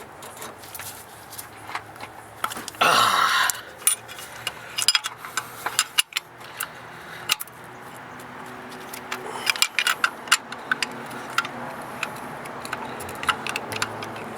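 A 19 mm wrench clinking and scraping against the PCV valve and engine as the valve is worked loose: scattered sharp metal clicks, with a louder rasping scrape about three seconds in.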